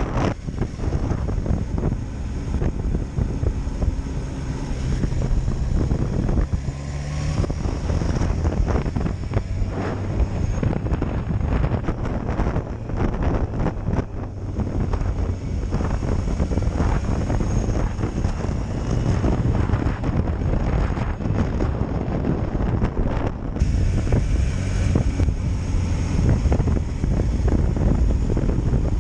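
Kawasaki Ninja H2 SX SE motorcycle riding along, its engine running under way with heavy wind noise buffeting the microphone. The engine note shifts a few times as speed changes.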